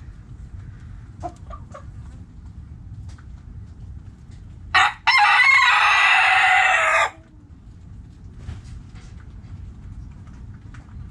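Rooster crowing once near the middle: a short first note, then one long crow of about two seconds. A few faint hen clucks come before it.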